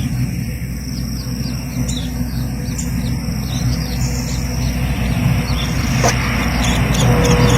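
Outdoor ambience: short high chirps repeating a few times a second, over a steady high drone like insects and a loud low rumble that grows louder toward the end.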